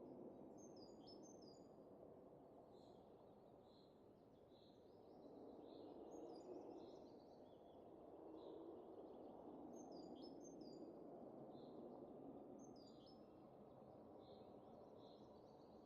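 Soft, faint wind rising and falling in gentle gusts, with small birds chirping in short clusters of high calls every couple of seconds.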